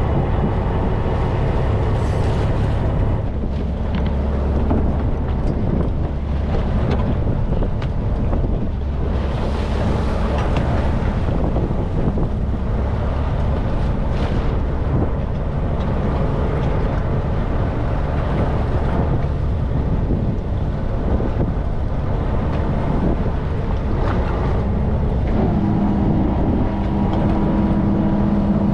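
Fishing boat's engine running steadily under way, with wind buffeting the microphone. Near the end the engine hum becomes steadier and clearer in pitch.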